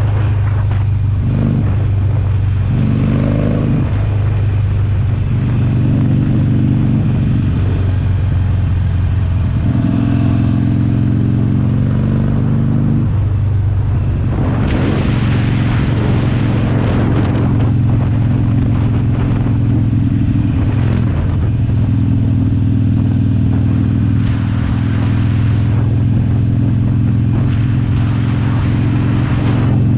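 2019 Harley-Davidson Sportster Forty-Eight's air-cooled V-twin running through a Jekill & Hyde flap exhaust while riding. Its pitch steps up and down with throttle and gear changes, and it turns louder and rougher about halfway through and again near the end.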